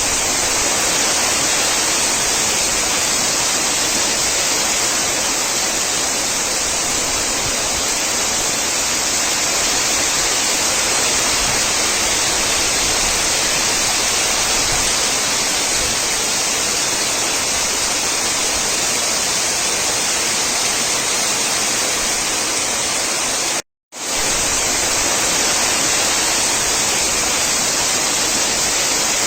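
Heavy rain and strong wind from a cyclonic storm: a dense, steady hiss, brighter in the upper range. It cuts out for a moment near the end, then resumes.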